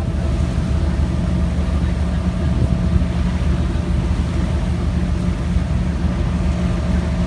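Steady low drone of a moving vehicle's motor, with a constant hum and a faint steady higher tone over it.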